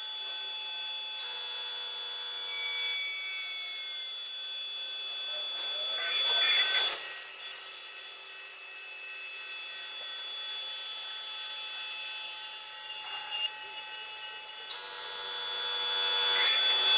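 CNC glass milling machine's high-speed spindle whining steadily at a high pitch while cutting glass, with a louder hissing noise swelling about six seconds in and again near the end.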